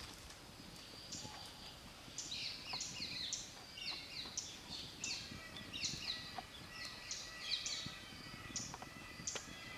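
Small birds chirping, many short falling notes in quick succession, growing busier about two seconds in.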